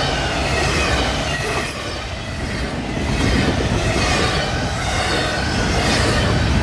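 Freight train cars rolling past steadily, a heavy rumble of steel wheels on rail, with faint high wheel squeal mixed in.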